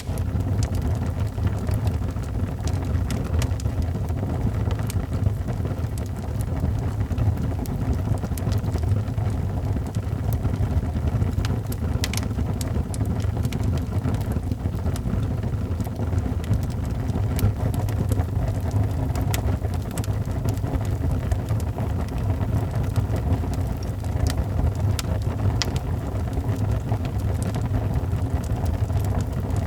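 Fire burning in a fireplace: a steady low rumble of flames with scattered sharp crackles and pops at irregular moments.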